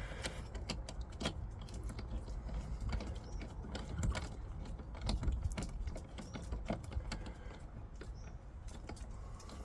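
Irregular metallic clicks and taps of hand tools working on a car battery's terminal and clamp nuts, with a couple of louder knocks about four and five seconds in.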